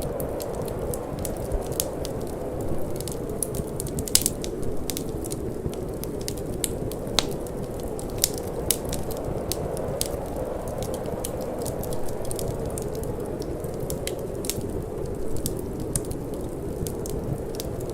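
Wood fire crackling with frequent sharp pops and snaps, a few louder ones, over a steady low rush of wind.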